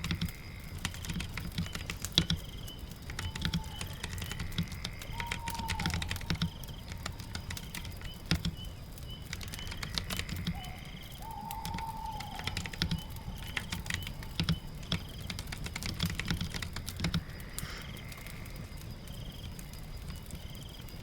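Typing on a keyboard, a quick irregular run of key clicks, over a steady patter of rain. A few short falling tones are heard now and then.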